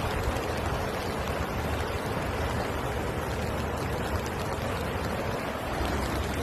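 Steady rushing noise of flowing floodwater, with a low rumble underneath.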